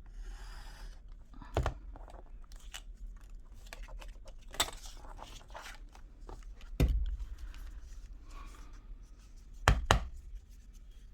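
Paper being handled and rustled on a craft table, with small clicks throughout and several sharp knocks, the loudest about seven seconds in and two close together near the end.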